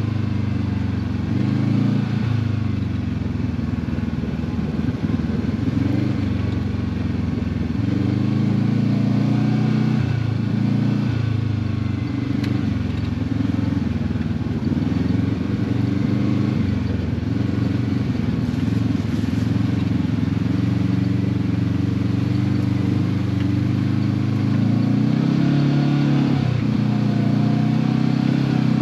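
Side-by-side UTV engine running under load as it drives a trail, the revs rising and falling every second or two with the throttle.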